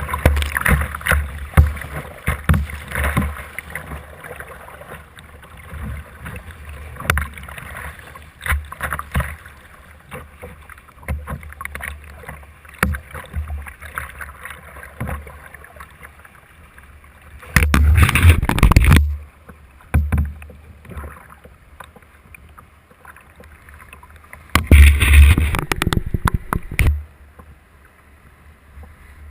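Kayak paddling on a whitewater river: irregular paddle strokes and water splashing, with low rumbling noise. Twice, for a second or two each, a loud rushing burst of noise covers everything.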